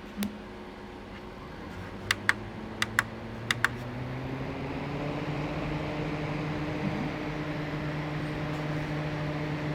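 Opolar 9-inch DC box fan: three double clicks from its control buttons, then the fan spinning up. A faint motor hum rises in pitch under a growing rush of air from its seven blades, then holds steady. There is no distinct startup sound.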